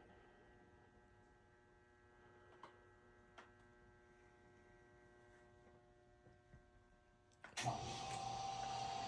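A faint steady electrical hum with a few light clicks, then a machine switches on abruptly about seven and a half seconds in and runs loudly with a steady whine.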